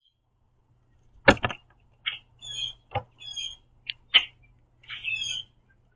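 Common grackles at a platform feeder: a handful of short, squeaky high calls, mixed with four sharp taps on the feeder.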